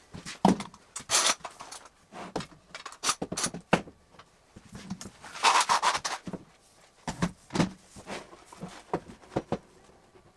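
Workshop handling noises: irregular knocks and clatters of objects being picked up and set down, with a longer scraping sound about five and a half seconds in.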